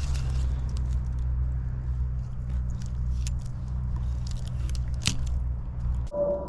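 Scattered crackles and crunches over a steady low rumble. Near the end the rumble cuts off abruptly and a steady hum-like tone takes over.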